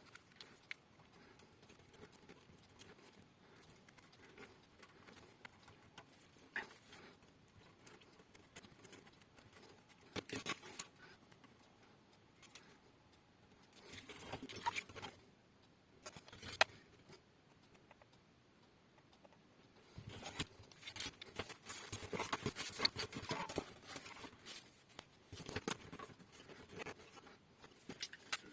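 Light, scattered clicks, taps and rustling, as small hard objects are handled. They come in short clusters about a third of the way in and around halfway, then more densely through the last third.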